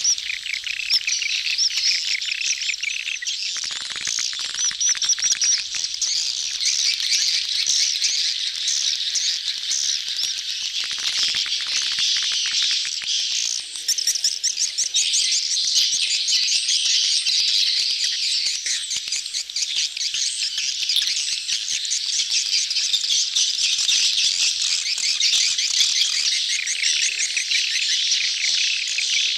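A dense crowd of edible-nest swiftlets twittering without pause, many rapid high chirps overlapping: the courting and mating calls of a swiftlet colony, as used for luring swiftlets into a nest house.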